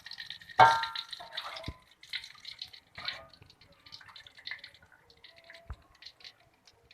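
Kitchen work at a sink: one loud ringing clank of a metal pot or bowl about half a second in, followed by water splashing and small clatters and knocks.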